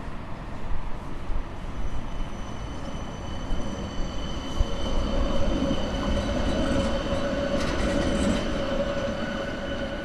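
A tram passing on the street, its steel wheels squealing on the rails with a steady high whine that builds a few seconds in and fades near the end, over street noise.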